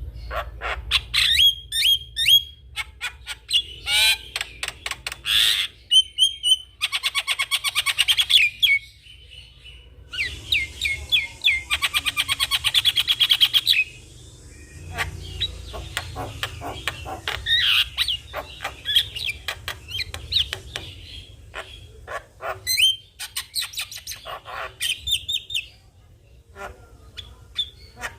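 Javan myna singing a loud, varied song of sharp whistled notes and squawks, with two long runs of rapid, rattling repeated notes in the middle.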